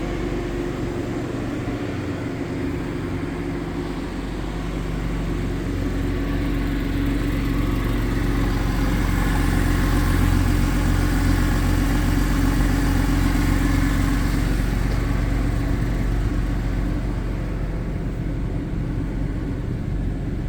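Porsche 911 flat-six engine idling after a cold start. It runs steadily, growing louder through the middle and then easing back down.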